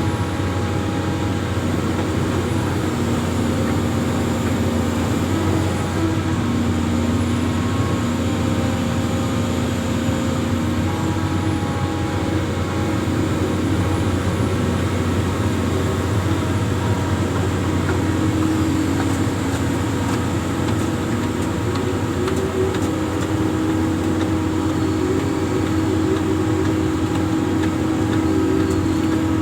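Amphibious excavator's diesel engine running steadily, with tones that step up and down in pitch every few seconds.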